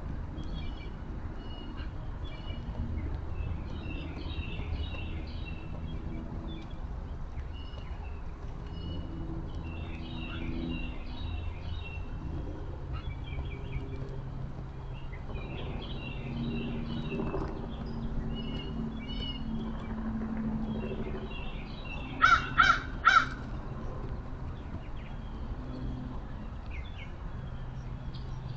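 A crow cawing three times in quick succession, loud and close, over steady high chirping and twittering of small birds and a low background hum.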